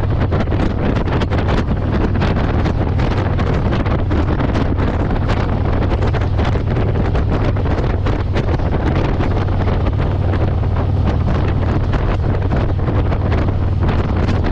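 Wind buffeting the microphone on a moving motorcycle, over the steady low drone of the engine.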